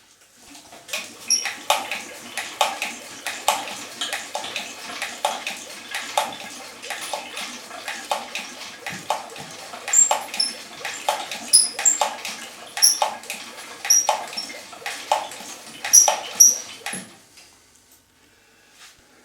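Engine running with an irregular metallic clatter from the valve train, several sharp clicks a second over a steady hum, taken by the owner for clattering hydraulic lifters on the camshaft. It stops abruptly a couple of seconds before the end.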